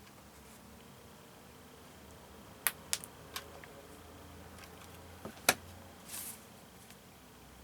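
Craft materials handled on a worktop while two foam squares are glued: a few sharp clicks and taps about a third of the way in, two more a little later, the second the loudest, then a brief rustle.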